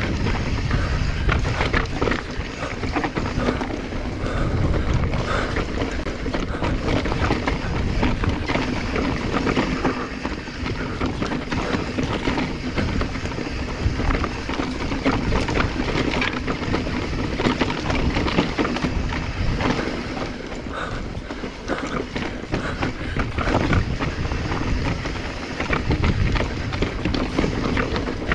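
Mountain bike riding downhill on a dirt trail: tyres rolling and crunching over dirt and rocks, with the bike rattling over constant small bumps and wind buffeting the chest-mounted camera's microphone.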